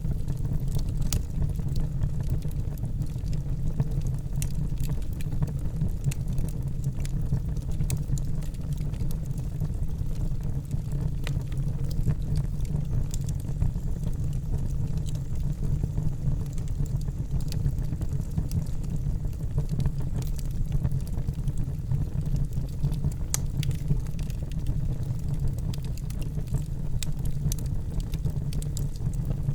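Wood fire burning in a fireplace: a steady low roar of flames with frequent small sharp crackles and pops scattered throughout.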